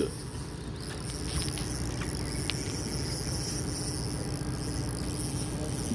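Steady low hum of the fishing boat's engine running, with a steady high-pitched whine above it and a few faint ticks.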